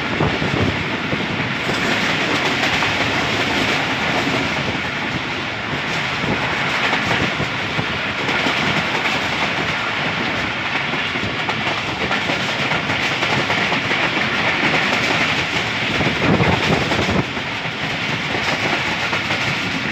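Jaffar Express passenger train running along the track, heard from aboard a coach: a steady rumble and clatter of wheels on rails.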